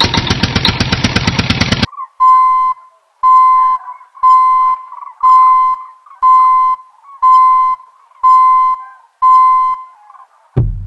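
A rapid, even engine-like rattle that cuts off abruptly about two seconds in, then an electronic beeper sounding eight short beeps on one steady tone, about one a second, like a vehicle's reversing alarm.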